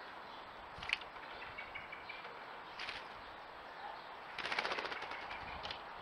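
A bird's fast rattling call, under a second long, about four and a half seconds in, with a single sharp click about a second in.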